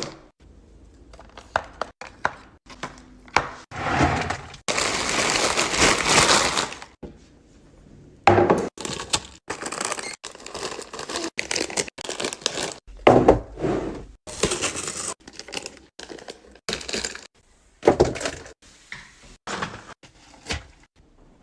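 A fridge being restocked by hand: packaged items and containers set down and knocked against shelves in a rapid string of clicks and knocks. Two longer stretches of crinkling and rustling stand out, one from about four and a half to seven seconds in and a shorter one near the middle.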